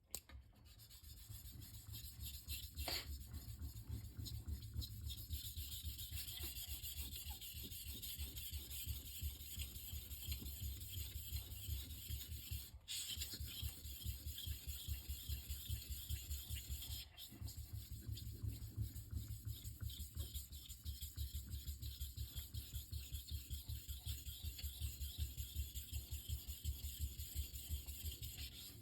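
Steel knife blade stroked back and forth by hand on a wet Shapton Rockstar 1000-grit whetstone: a steady, rhythmic run of scraping strokes, broken twice by short pauses near the middle.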